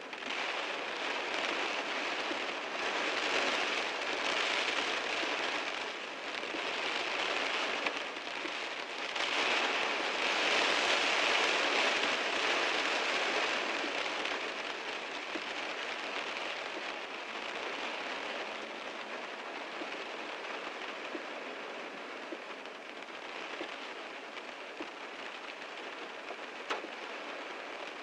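Heavy rain falling on a car, a dense steady patter that swells heavier a few seconds in and again around the middle, then eases somewhat.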